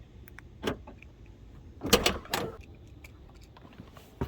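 A few short knocks and clicks: one, then a louder cluster of two or three about two seconds in, and a sharp click near the end.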